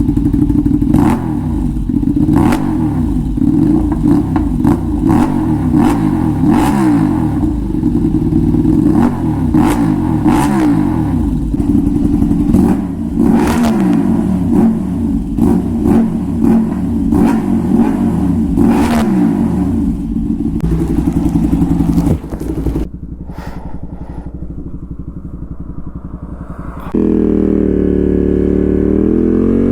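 Ducati Panigale V2's 955 cc L-twin engine through a full titanium exhaust, its pitch rising and falling over and over, with sharp pops and crackles. It drops quieter after about 22 seconds, then holds a loud, steady higher note near the end.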